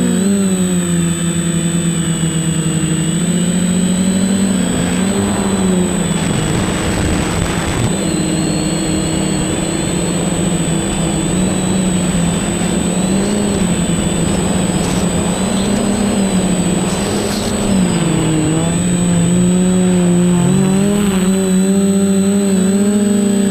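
Quadcopter's electric motors and propellers whining, the pitch dipping and rising as the throttle changes in flight. Twice there is a brief rushing noise over it.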